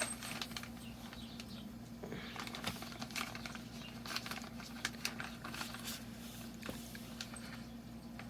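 Scattered light clicks and taps of small motorcycle parts and hardware being handled, over a steady low hum.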